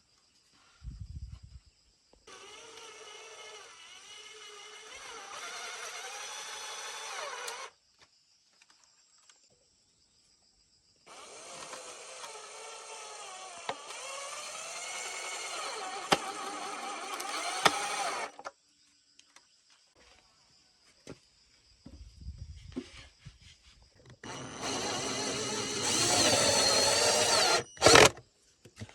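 A cordless power drill running in three long runs of several seconds each, with short pauses between them. Its whine wavers in pitch and grows louder through each run. A brief sharp knock near the end.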